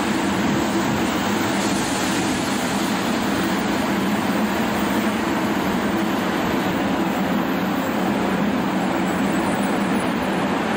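A 500-series Shinkansen bullet train passing alongside a station platform, a steady, unchanging noise.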